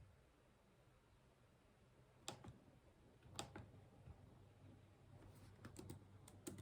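Scattered clicks from a computer mouse and keyboard at a desk: two single clicks about a second apart, then a quick run of several clicks near the end, over a faint low hum.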